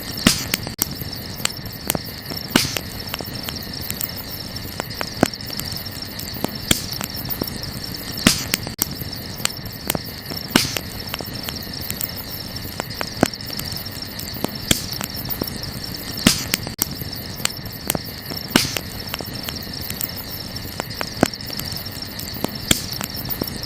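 Wood campfire crackling, with sharp pops every second or two, over a steady chorus of chirping crickets.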